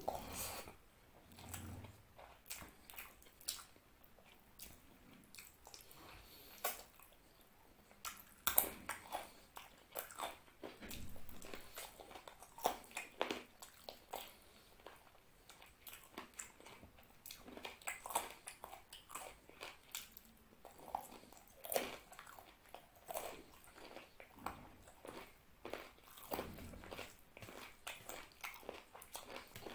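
Mouth sounds of eating mutton curry and rice by hand close to the microphone: irregular chewing, wet lip smacks and clicks, with fingers squishing and mixing rice on the plate.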